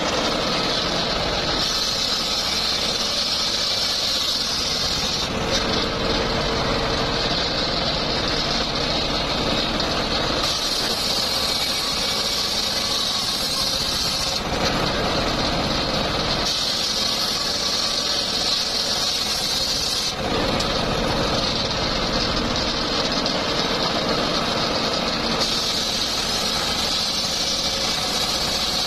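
Homemade circular sawmill running steadily with its motor droning, a higher whine coming and going in spells every several seconds as the blade works teak.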